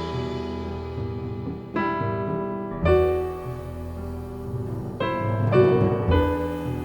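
Jazz piano trio playing: piano chords struck every second or so and left to ring, with low notes sounding beneath them.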